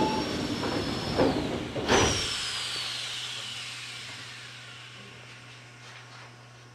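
Onboard an Odakyu 8000 series electric train car, a thump about two seconds in is followed by a high electrical whine that falls steadily in pitch and fades, over a steady low hum.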